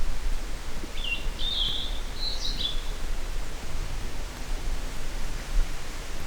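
A small songbird singing a few short, quick chirping phrases about a second in, over steady outdoor background noise with a low rumble.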